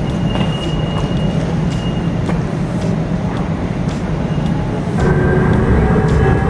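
Airport Skytrain people mover: a steady rumble at the platform, then, about five seconds in, the louder running noise inside the moving car with a steady motor whine.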